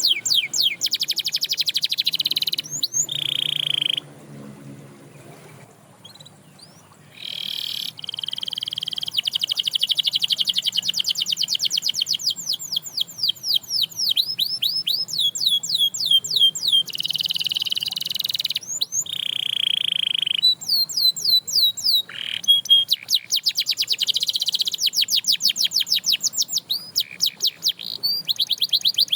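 Canary singing: long rolling trills of rapid repeated notes, broken by a few held whistled notes. It falls quiet for about three seconds soon after the start, then sings on without a break.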